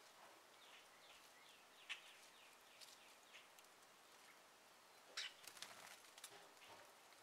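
Faint wild birds calling: a quick run of short, falling chirps about a second in, then a cluster of sharp clicks and chirps about five seconds in, over a faint steady hiss.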